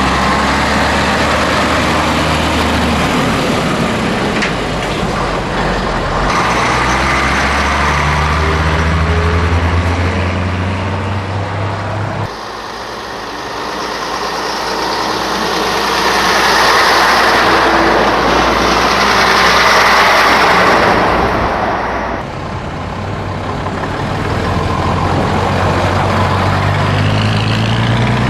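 Scania truck's diesel engine running on the road. The engine note rises and falls, and the sound changes abruptly twice.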